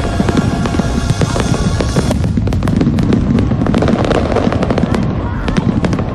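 Firework display going off in a rapid barrage: many sharp bangs and crackles close together, getting denser about two seconds in. Music plays under the bangs for the first two seconds, then stops.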